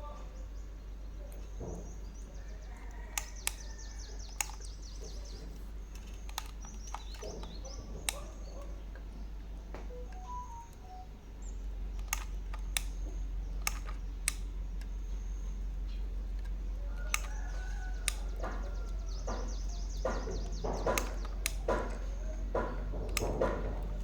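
Scattered sharp clicks and taps over a steady low hum that gets louder about eleven seconds in, with quick high chirps of birds now and then.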